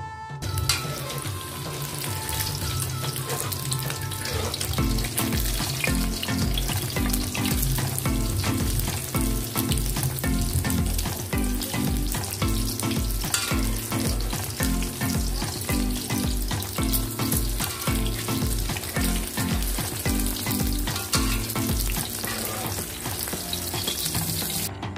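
Egg frying in hot oil in a wok, sizzling and crackling steadily, with a metal spoon turning it against the pan. Background music with a steady bass beat plays under it from about five seconds in until near the end.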